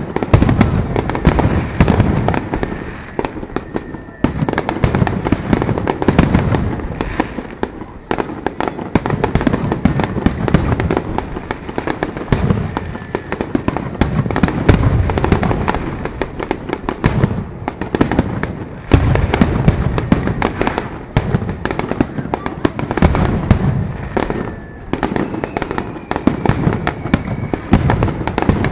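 Fireworks display: a dense barrage of aerial shell bursts and crackle, many bangs a second, swelling and easing in waves.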